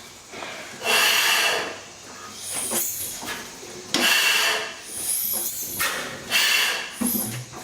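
National Type S 32 HP stationary gas engine during starting, giving four hissing puffs about one and a half to two seconds apart, with fainter hiss between them.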